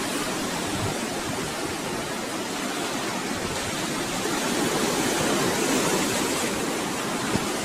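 Ocean surf washing onto the beach, mixed with wind buffeting the microphone: a steady rush that swells slightly near the end.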